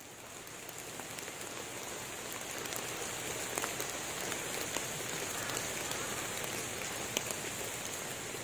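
Rain falling on forest leaves and ground: a steady patter with scattered sharp drops close by, swelling louder over the first two seconds or so.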